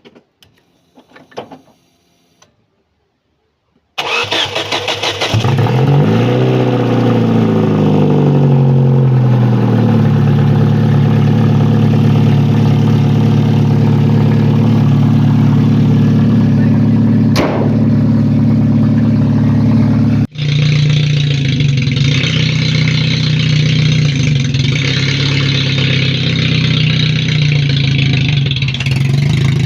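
Daewoo Sens car engine, a transplanted Daewoo Nexia unit, cranked by the starter about four seconds in and catching. It revs for a few seconds, then settles into a steady idle.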